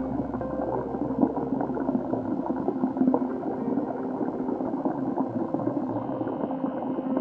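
Steady, muffled bubbling and gurgling of moving water, as picked up by a camera held underwater, with many small crackles.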